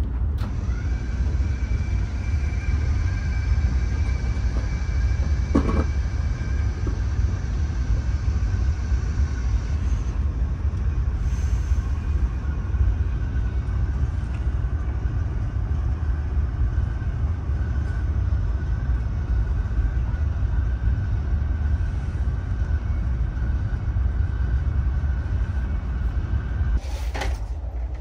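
Cabin noise of a Fuxing high-speed train running: a steady low rumble with faint steady high tones over it, and a brief knock about six seconds in. Near the end there is another knock and the high tone stops as the train slows for the station.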